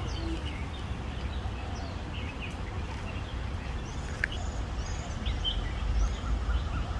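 Several birds chirping in short, overlapping calls over a low steady rumble.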